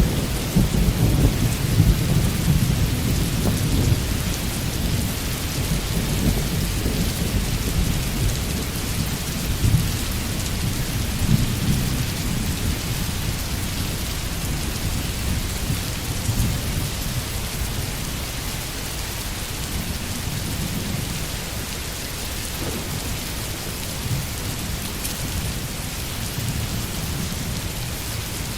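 Steady rain falling, with a long low roll of thunder underneath that is heaviest in the first half and slowly dies away.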